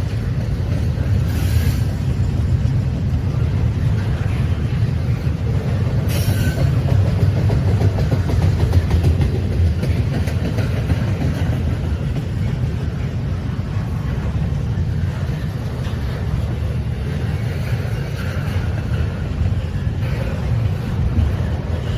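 Train rolling past, a steady low rumble of railroad cars on the rails. Two brief sharp, high clicks come about a second and a half in and again about six seconds in.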